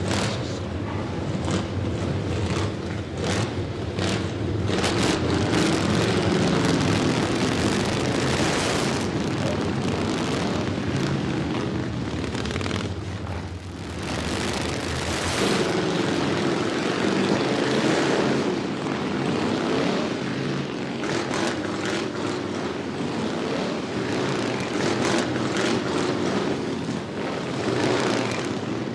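Several motorcycle engines running together, rumbling loudly and revving up and down, with a short dip about halfway through.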